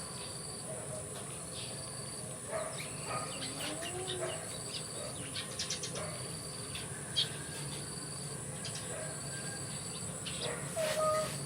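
Scattered short animal chirps and squeaks, with a short high-pitched peep repeating about every second and a half, over a steady high-pitched buzz.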